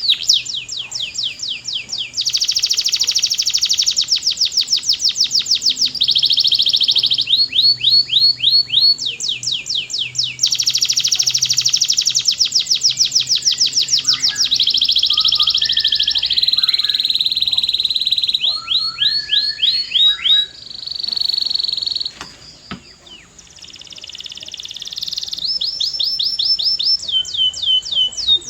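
Male canary singing a long, loud song of rapid trills: runs of quick falling notes alternate with held, rolling tours that change every second or two, with a brief lull about three quarters of the way through before the trilling resumes.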